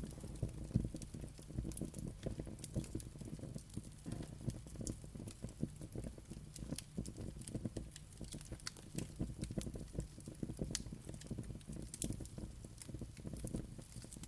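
Wood fire burning, with a low steady rumble and frequent irregular crackles and pops.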